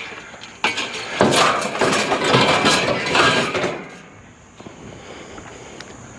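A handful of small metal trampoline parts clattering and clinking as they are tossed onto a load of scrap metal, a dense rattle of many pieces lasting about three seconds and starting about half a second in.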